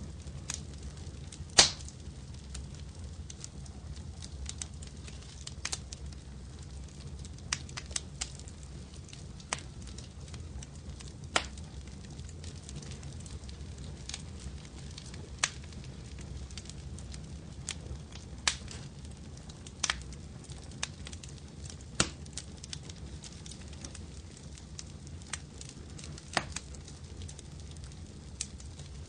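Wood fire in a fireplace crackling: irregular sharp pops and snaps over a low, steady rumble of the flames, the loudest pop about a second and a half in.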